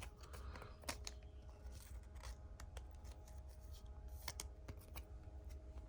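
Faint clicks, scrapes and rustles of trading cards and plastic sleeves or pack wrappers being handled, over a low steady hum.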